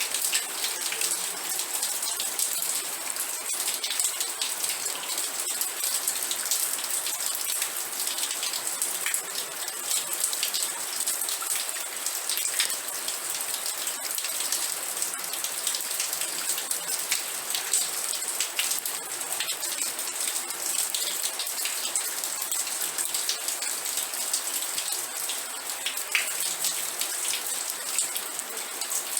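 Steady rain, with dense patter of individual drops ticking on a surface.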